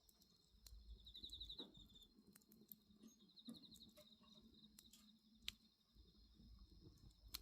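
Faint crackling of a wood bonfire: scattered small pops, with a sharper pop about two-thirds of the way through. Crickets trill steadily in the background, with two louder pulsed trills early on.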